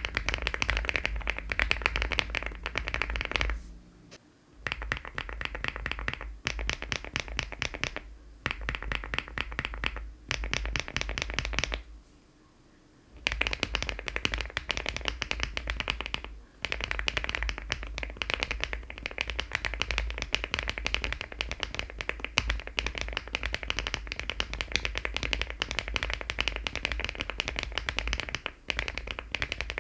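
Fast continuous typing on a LEOBOG Hi75 aluminium mechanical keyboard with HMX switches and Cherry-profile keycaps: a dense stream of key clacks. It breaks off briefly about four seconds in and again for about a second near the middle.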